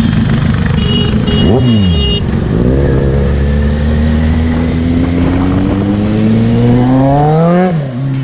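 KTM motorcycle engine giving a quick rev up and back down, then pulling hard through one gear, its pitch climbing for about five seconds. The pitch drops sharply near the end at an upshift.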